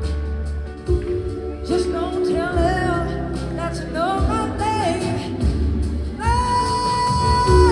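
Live band music: a lead line of sliding, bending notes over the full band, settling near the end into one long held high note.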